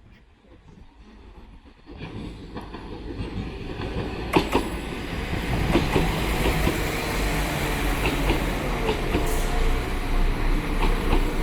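Five-car Class 172 diesel multiple unit arriving at a platform, growing louder from about two seconds in as it approaches. Its wheels click over rail joints and its diesel engines are running.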